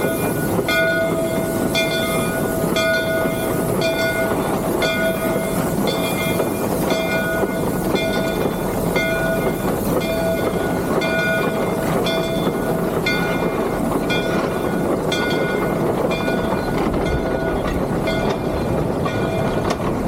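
Three-truck Shay geared steam locomotive running, heard from the cab, with its bell ringing steadily about once a second over the running noise.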